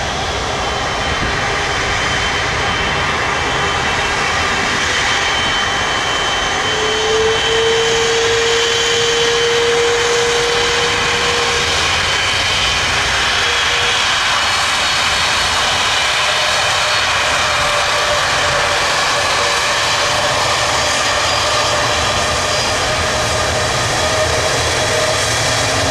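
Airbus A330 jet engines running: a steady, loud roar with whining tones over it, one clear whine standing out for a few seconds in the middle.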